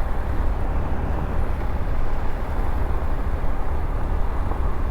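Steady wind and road noise while riding a Honda CT125 motorcycle, a heavy low rumble of air buffeting the helmet microphone over the small bike's running engine.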